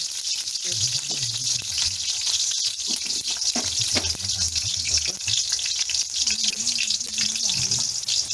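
Potato cubes frying in hot oil in a wok: a steady sizzle with fine crackling.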